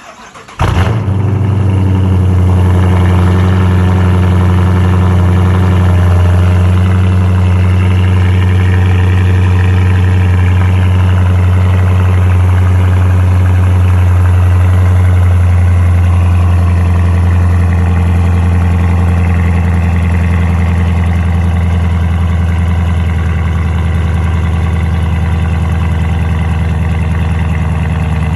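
A 2015 Dodge Charger R/T's 5.7-litre HEMI V8, with a straight-piped exhaust that keeps the catalytic converters, starts up about half a second in and settles into a loud, deep idle. The idle eases off slightly in the second half.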